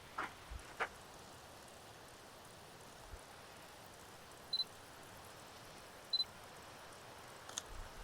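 Camera focus-confirmation beep sounding twice, a quick high double pip each time, about a second and a half apart, with a few faint clicks from the camera or handling near the start and near the end.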